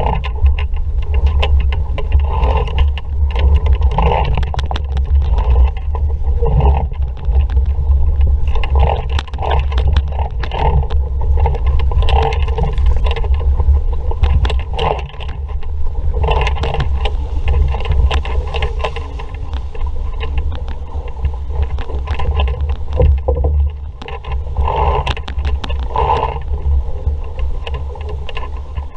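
Wind buffeting the microphone as a steady heavy rumble while an RS Vareo sailing dinghy moves under sail, with a constant stream of irregular knocks and splashes from the hull and water.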